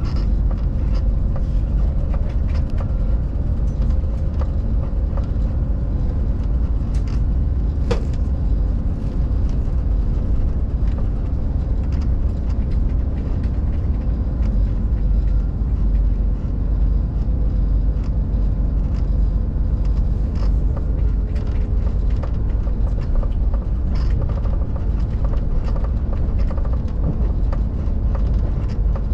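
Regional train running along the track, heard from inside the carriage: a steady low rumble with frequent small clicks and rattles, and one sharper click about eight seconds in.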